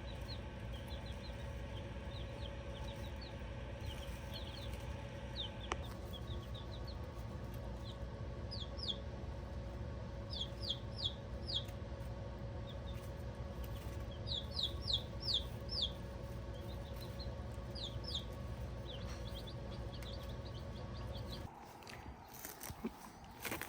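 Baby chicks peeping: short high chirps, often in quick runs of three or four, over a steady low hum. Near the end the hum cuts off suddenly.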